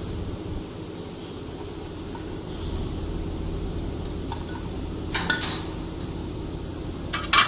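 Metal parts clinking with a short ringing tail, once about five seconds in and several times in quick succession near the end, over a steady low hum.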